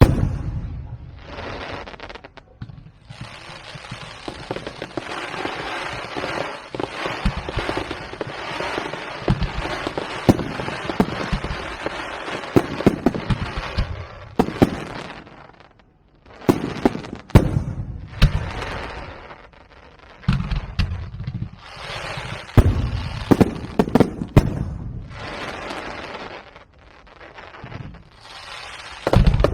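Aerial fireworks display: shells bursting with loud bangs over dense crackling, with a short lull about sixteen seconds in.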